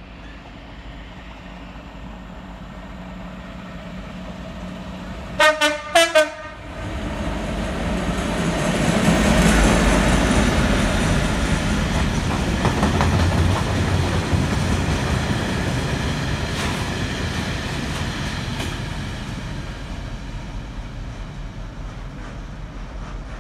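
Freight train locomotive sounding three short horn blasts as it nears, then the train running through, a loud rumble and rattle of wagons with wheels clicking over rail joints, slowly fading as the wagons go by.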